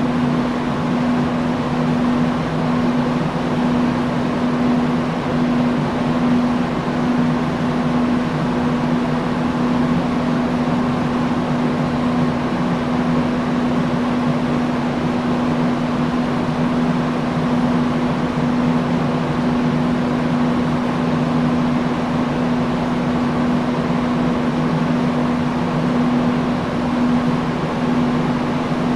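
Industrial fan running steadily: a constant rush of moving air with a steady low hum from the motor.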